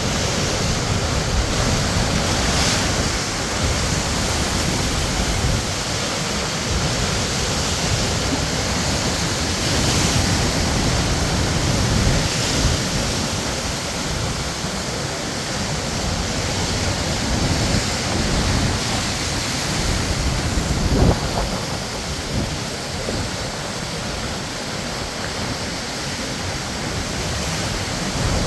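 Sea waves breaking and washing on the shore, a steady rushing noise that swells every few seconds, with a brief louder crash about three quarters of the way in.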